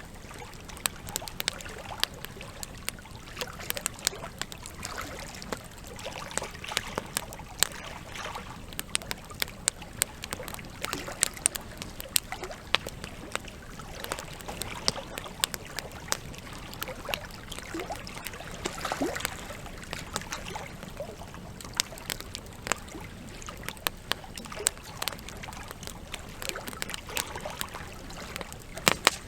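Wood campfire crackling: irregular sharp pops and snaps from the burning logs, over a steady background of trickling water.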